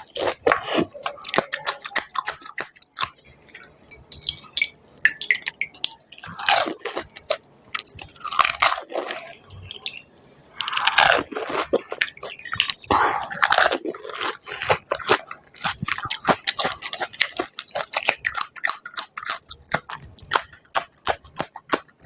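Close-miked biting and chewing of crisp panipuri (golgappa) shells: many sharp crunches, with a few longer, louder mouthfuls near the middle.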